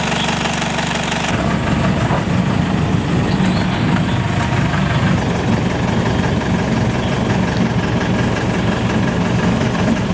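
Jeep engine idling steadily, then running louder and rougher from about a second in.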